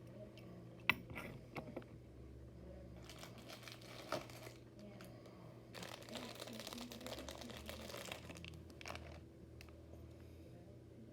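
Plastic being handled, crinkling and rustling in two stretches, with a few sharp clicks and a knock near the start and about four seconds in.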